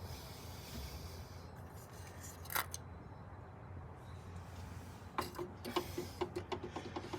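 Hand tools working on the car's bolts: one sharp metal click about two and a half seconds in, then from about five seconds a fast run of clicks.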